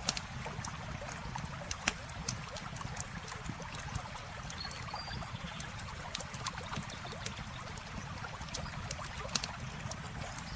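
Campfire crackling with many sharp pops, a few of them louder, over the steady rush of flowing river water.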